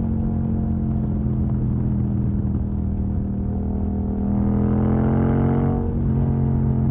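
Yamaha MT-07's 689 cc parallel-twin running through an exhaust with its dB killer baffle removed: a steady engine note, then the pitch rises under acceleration for a second and a half and drops abruptly about six seconds in, as at a gear shift or the throttle closing.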